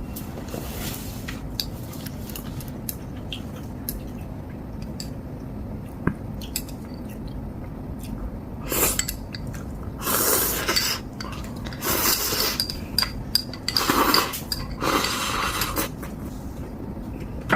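Chopsticks and spoons clinking against a ramen bowl, then, from about nine seconds in, four or five loud slurps of ramen noodles, each about a second long.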